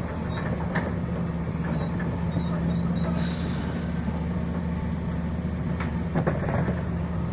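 Heavy diesel engine running steadily at a low, even speed, with a few scattered knocks and clanks from the work.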